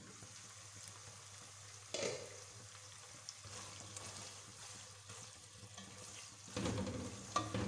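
Marinated chicken pieces sizzling in oil in a nonstick pot, with a single knock about two seconds in. From about six and a half seconds a spatula stirs and scrapes through them and the sizzling grows louder.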